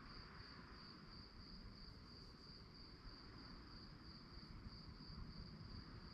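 Crickets chirping at night: one steady, high, even trill pulsing about three times a second, faint, over a soft low background hiss.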